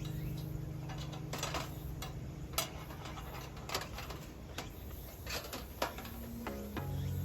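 Irregular sharp crackles and pops of a burning wood fire, about one or two a second. An acoustic guitar chord rings out and fades at the start, and guitar notes come back near the end.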